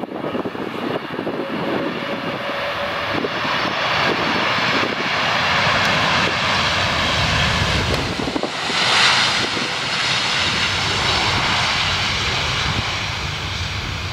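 Airbus A330-200 twin-engine jet landing, its turbofan engines giving a steady jet roar with a whine. The noise swells to its loudest about nine seconds in as the jet passes closest, then eases off.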